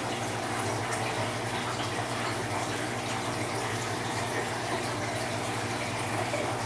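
Aquarium filtration running: a steady rush of splashing, trickling water with a constant low electric hum from the pumps.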